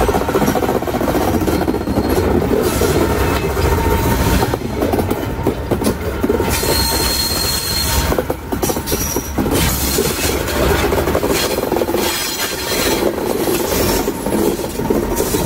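Old FS passenger carriages rolling past close by, wheels clattering over the rail joints, with now and then a brief high wheel squeal.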